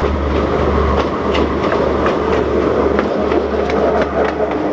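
A train running along the track, with a steady low engine rumble and repeated sharp clattering of wheels over the rails. It starts abruptly.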